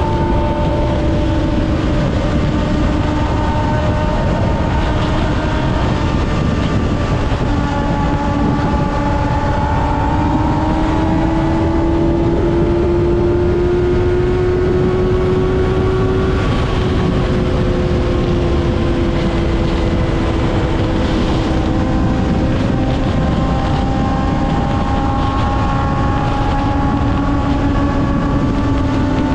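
Kawasaki ZX-6R's inline-four engine running at steady high revs on the move, its pitch drifting slowly up and down, over a constant rush of wind and road noise.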